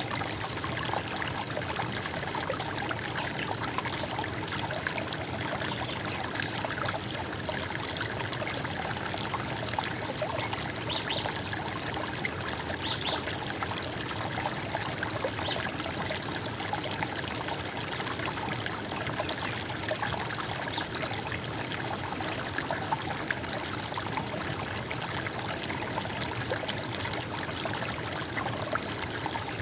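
Running stream water, a steady gurgling flow.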